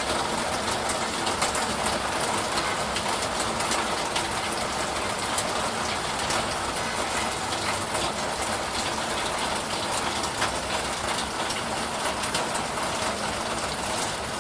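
Steady rain shower: an even wash of falling rain with many separate drop ticks scattered through it.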